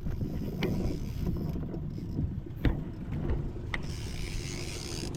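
Steady low rumble and hum of a small boat's engine running, with a few sharp clicks and knocks.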